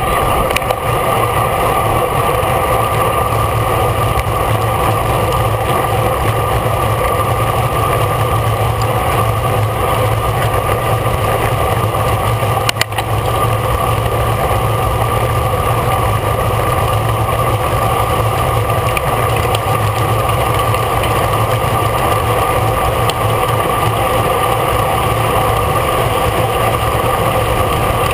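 Steady wind and road noise from riding a road bike at race speed in a bunched race, with a single sharp click or knock about 13 seconds in.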